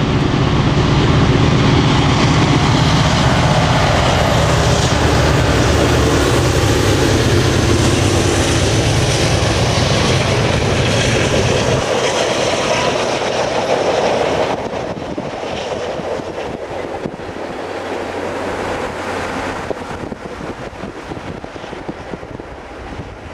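Train passing close by. The low, steady drone of its diesel locomotives ends about twelve seconds in, leaving the rumble of the rolling cars, which drops off sharply after about fifteen seconds and fades away.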